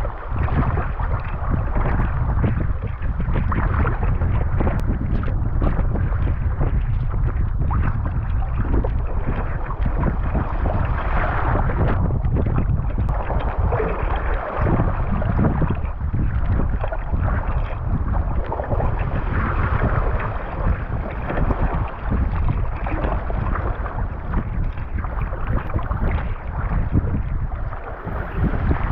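Strong wind buffeting the microphone in a steady low rumble, with choppy water sloshing and splashing around a kayak in irregular surges.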